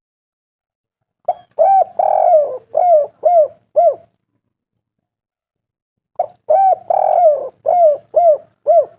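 Spotted dove cooing: two phrases, each of about six notes (a short first note, a longer middle note, then a few quick short coos), with a pause of about two seconds between them.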